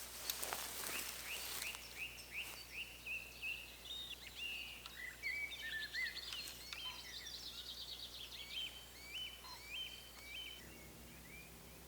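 Woodland birds singing, several overlapping songs of short, high, repeated chirps and trills. A brief rustle near the start.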